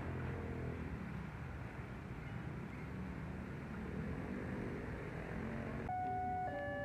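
Steady rumble and hiss of a train rolling past. About six seconds in, the sound cuts abruptly to a simple tune of clear electronic tones.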